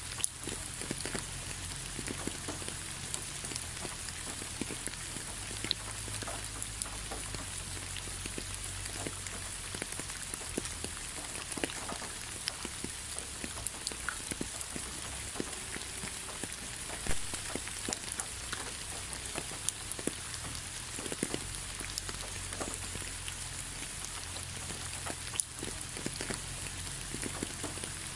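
Steady rain falling, an even hiss dotted with many small drop ticks and a few louder drop impacts.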